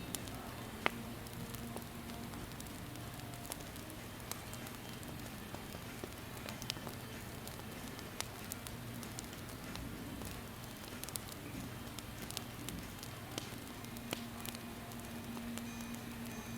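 Wood campfire crackling: a steady soft hiss broken by frequent irregular sharp pops and snaps, with a faint steady low hum underneath.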